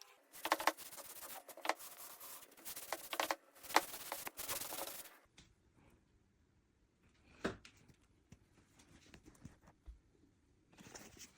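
Quick back-and-forth rubbing strokes on the wooden chair frame for about five seconds, then quieter handling with a single click in the middle and a brief rub near the end.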